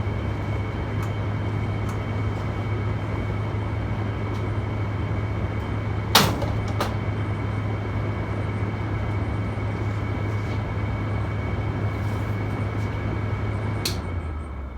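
Air conditioner fan motor running steadily on high with the compressor off: a low hum under airflow noise with a thin high-pitched whine, the weird sound the owner suspects means something is wrong with the motor. A sharp click about six seconds in, and near the end a click after which the fan winds down.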